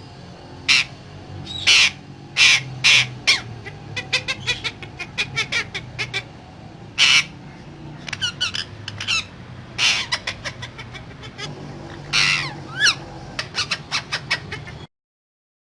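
Pet parrot squawking: a long run of short, loud harsh calls and quicker chirps, a few sliding in pitch, which stops abruptly about a second before the end.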